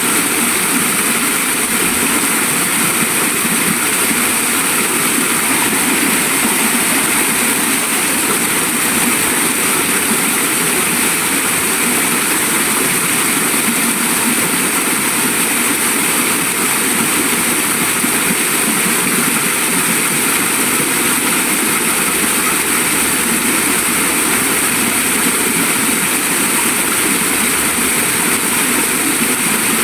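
Waterfall and flowing stream water rushing steadily, a continuous even roar with no breaks.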